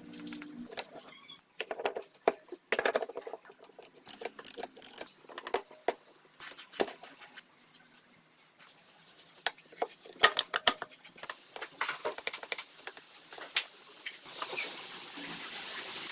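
Small metal parts and hand tools clinking, tapping and clicking irregularly, with sharp metallic knocks. Near the end a steady hiss sets in.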